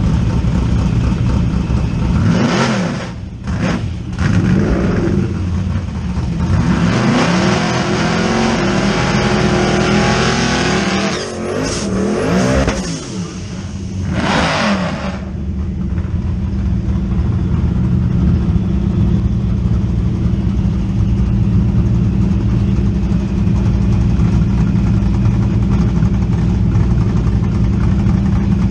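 Twin-turbocharged Ford Coyote V8 revving in short bursts, then held at high revs for several seconds with the pitch rising and falling. A few more sharp revs follow, and then it settles to a steady idle for the second half.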